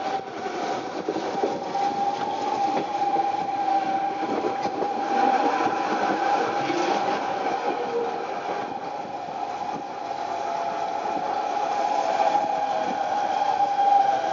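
Electric narrow-gauge train running slowly, heard from inside, with a steady whine over the rumble of the wheels on the rails.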